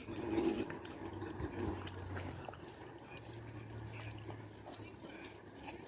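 Shiba Inu chewing watermelon: irregular wet crunching and smacking clicks, over a low steady hum.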